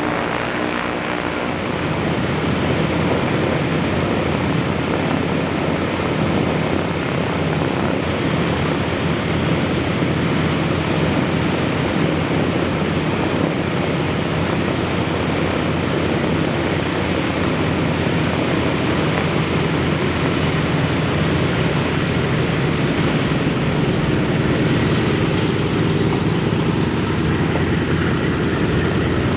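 A B-17 Flying Fortress's Wright R-1820 Cyclone nine-cylinder radial engines running steadily while taxiing, with the propellers turning. About two seconds in, the engine note fills out and grows slightly louder.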